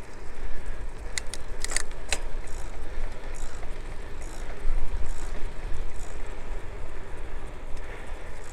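Wind buffeting the microphone of a moving cyclist, a steady low rumble, with a few sharp clicks between one and two seconds in.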